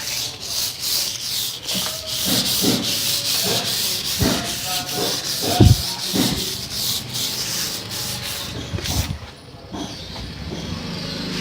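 400-grit sandpaper rubbed by hand over a stained wooden cabinet surface in repeated light strokes, all in one direction, scuffing the finish so the clear coat will grip. There is a single dull thump about halfway through.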